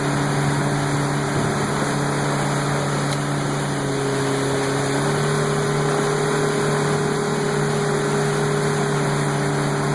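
Motorboat engine running steadily at speed, with water and wind noise from the moving boat. The engine's note shifts slightly about four to five seconds in.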